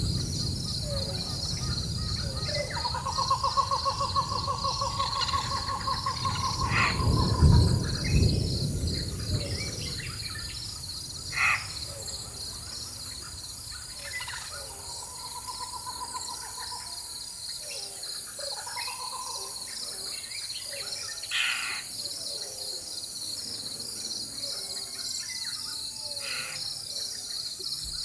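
Rainforest soundscape: a steady, pulsing insect chorus with long trilling calls and short bird calls, over a low rumble of distant thunder that swells to a peak about seven seconds in and fades out by about ten seconds.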